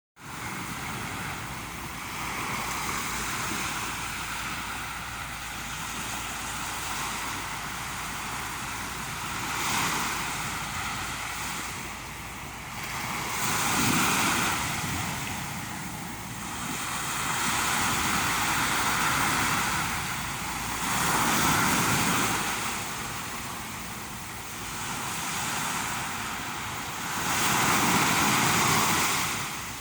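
Ocean surf: waves breaking and washing in, swelling and fading every few seconds, with a steady rush of wind.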